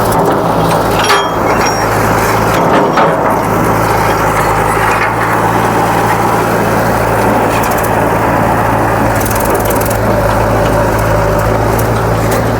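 Heavy diesel engine running steadily under load, with a few sharp knocks about a second and three seconds in.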